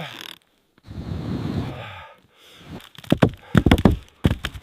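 Wood being handled: a rough scraping shuffle, then a quick run of sharp knocks about three seconds in, as of timber being struck or set down while working on the shelter.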